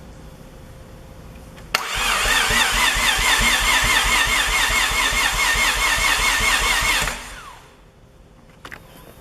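Mazda 13B twin-turbo rotary engine cranked over by its starter motor: a click as the starter engages, then about five seconds of starter whine that wavers up and down with each rotor's compression pulse, stopping abruptly.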